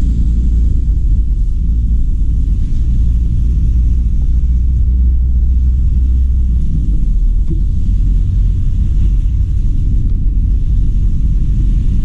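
A car driving, with a steady low rumble of engine and road noise. The deepest drone drops in pitch about six and a half seconds in.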